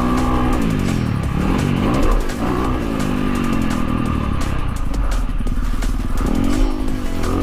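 Dirt bike engine revving up and dropping back repeatedly as it is ridden on a track, with wind rumble and some clatter.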